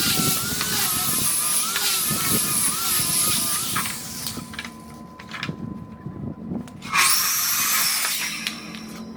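Angle grinder with a sanding disc sanding larch firewood logs: a loud rushing grind with a wavering whine that drops away about four seconds in and starts again about seven seconds in.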